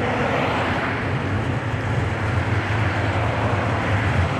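A car engine running with a steady low rumble, amid broad outdoor noise.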